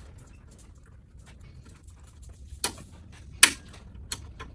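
Sharp clicks and knocks of a pick or tool tapping against the bumper's metal and plastic parts while fishing for a dropped retaining clip, three louder strikes in the second half.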